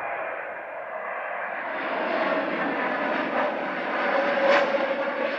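Airbus A321neo's Pratt & Whitney geared turbofan engines on landing approach, a jet rush with a steady droning tone that grows louder as the aircraft comes past and is loudest about four and a half seconds in.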